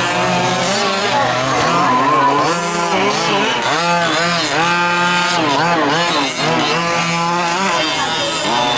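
Several 1/5-scale gas RC trucks' small two-stroke engines running together, each repeatedly revving up and easing off through the track's corners and jumps, high and buzzy.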